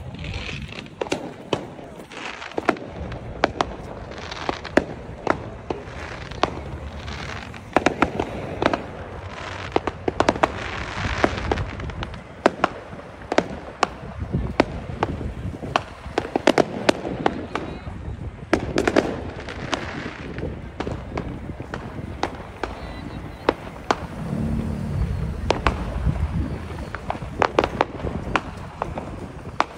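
Fireworks going off nonstop: a rapid, irregular string of sharp bangs and crackles, often several a second, with no break.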